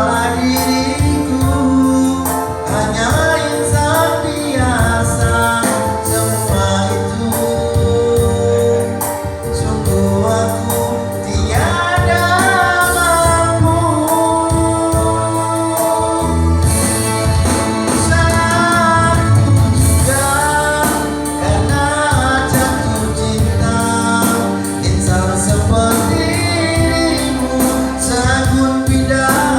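A voice singing a melody over musical accompaniment, with sung phrases starting and stopping every few seconds.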